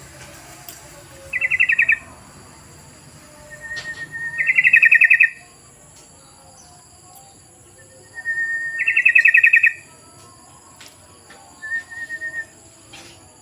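Yellow-vented bulbul (trucukan) song played as a lure call: three loud bursts of rapid, bubbling chattering notes, the later two each led by a short steady whistle, and a softer short phrase near the end.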